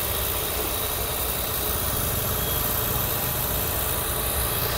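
Petrol engine of a 2009 Maruti Suzuki WagonR LXi idling steadily with the bonnet open, running smoothly.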